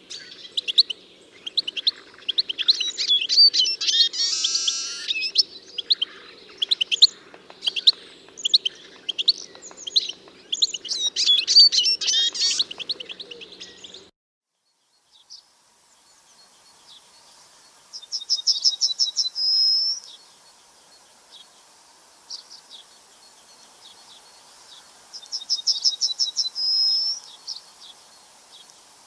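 Birds singing: a busy mix of overlapping chirps and trills for about the first half, then after a sudden break a single bird's fast trilled phrase, ending in a slurred note, sung twice.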